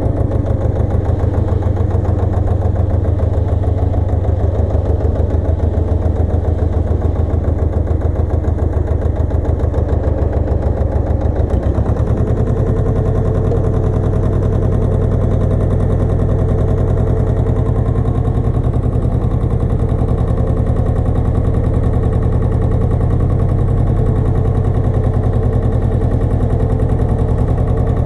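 Pasquali 980 EX compact tractor's engine running steadily, likely driving a rotovator; its note shifts about twelve seconds in.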